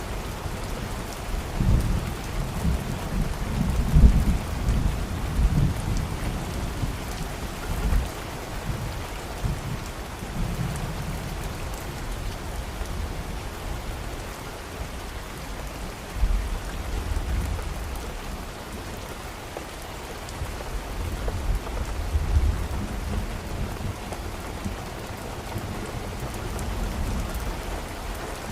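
Steady rain falling, with low rolling rumbles of thunder that swell a couple of seconds in and again in the second half.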